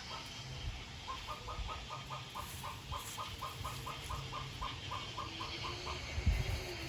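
A Silkie hen clucking in a steady run of short, even notes, about four a second, stopping near the end. A thump sounds about six seconds in.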